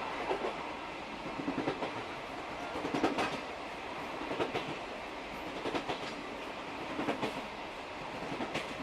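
Old-style Suhafu 42 passenger coach running over jointed rail, its wheels clicking over the rail joints in a cluster of clicks roughly every second and a half above a steady running rumble. The EF58 electric locomotive's traction motors are barely heard on this downhill stretch.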